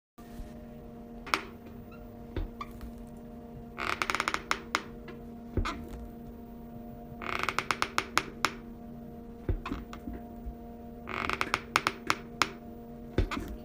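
Electric drill running steadily, with three bursts of rapid clicking and rattling about four, seven and eleven seconds in.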